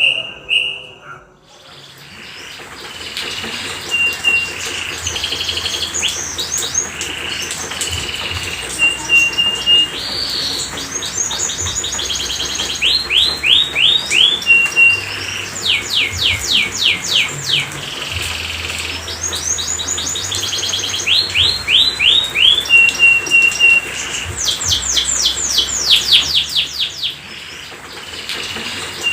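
Domestic canary singing a long, continuous song that starts about two seconds in: rolls of rapid repeated sweeping notes alternating with short level whistles.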